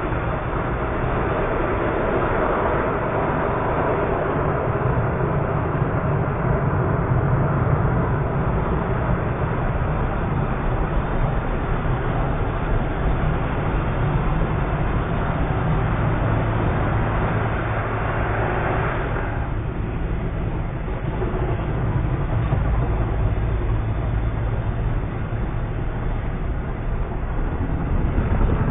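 Pickup truck driving: a steady rumble of engine and road noise with a higher hiss over it that drops away about two-thirds of the way through.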